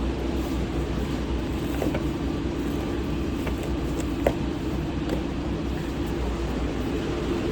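Steady drone of running fast-food kitchen machinery, with a low hum, a few light clicks and one sharper knock about four seconds in.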